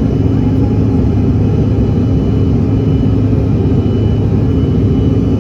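Regional airliner's engines and cabin air noise heard from inside the passenger cabin: a steady, unbroken drone with a low hum and a faint high whine.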